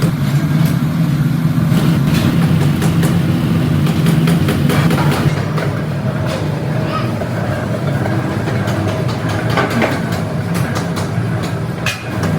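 Factory machinery running with a steady low hum, with scattered clicks and knocks on top.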